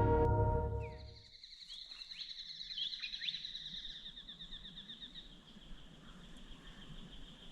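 Background music fading out in the first second, then faint birdsong: rapid trilling high notes with a few short swooping calls, cutting off near the end.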